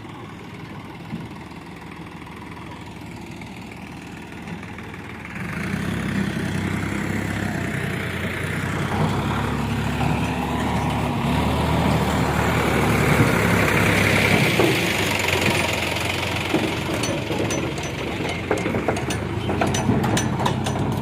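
Heavy diesel engine running low and steady, then about five seconds in opening up and working hard under load, loudest around two-thirds of the way through and easing slightly after. Sharp clicks and rattles near the end.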